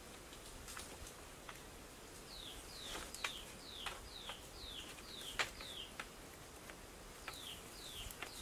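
A bird calling a run of short, high notes, each sliding downward, about three a second, breaking off and starting again near the end. Scattered sharp clicks and knocks sound throughout.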